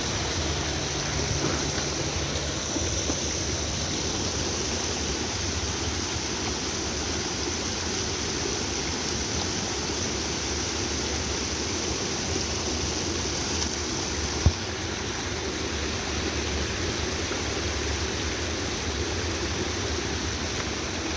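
Small waterfall pouring: a steady rush of falling water. A single sharp click about fourteen seconds in.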